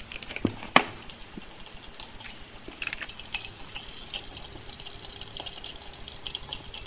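Small fire of burning matches crackling and sizzling in scattered little pops, with one sharp click about a second in.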